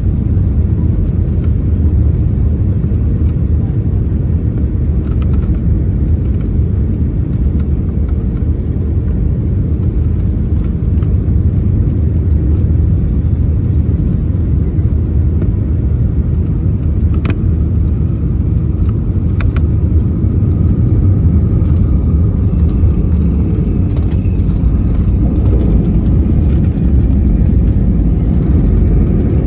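Airliner cabin noise: a steady low rumble of the jet's engines and airframe. Two sharp clicks come a couple of seconds apart past the middle, and a faint steady whine joins near the end.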